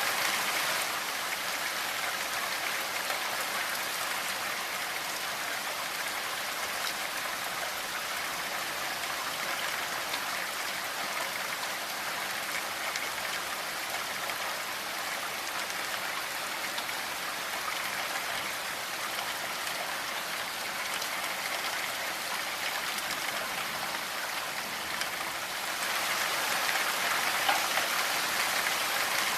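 Steady rainfall, an even patter of drops on a surface, swelling slightly louder near the end.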